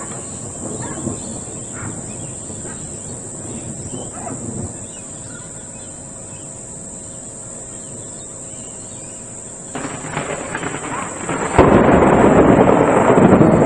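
Thunder from a close lightning strike: a crackle starts about ten seconds in, then a sudden loud clap that carries on rumbling.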